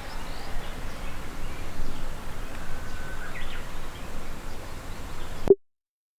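Outdoor ambience with a low rumble and a few faint bird chirps. It ends near the end in a short pitched pop, an edit sound effect, and then cuts to silence.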